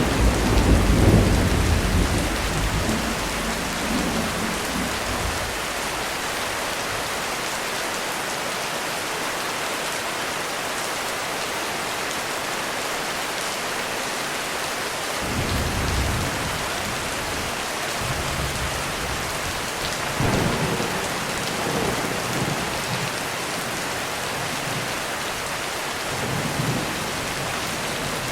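Heavy rain falling steadily on a roof, with thunder rumbling. The loudest roll is at the start and fades over several seconds; shorter rumbles come about halfway through, past two-thirds of the way, and near the end.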